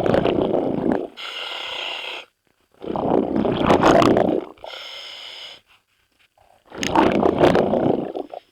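A scuba diver breathing through a regulator underwater: three gurgling bursts of exhaled bubbles, each followed by a shorter, higher hiss as the regulator delivers air on the inhale, in a slow, even rhythm.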